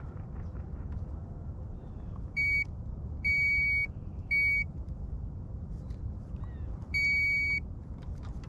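An electronic device beeps four times at one steady, high pitch: short, long, short, then a longer beep a few seconds later, over a steady low rumble.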